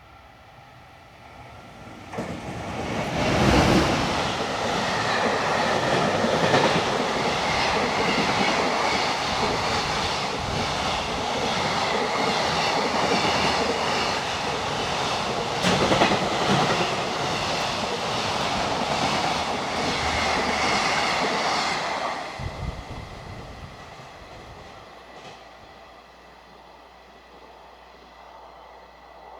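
Freight train passing at speed, its wheels clattering over the rail joints. It swells in about two seconds in, stays loud for around eighteen seconds as the wagons go by, then fades away.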